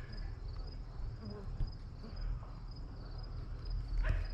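Crickets chirping steadily, about two short high chirps a second, over a low rumble.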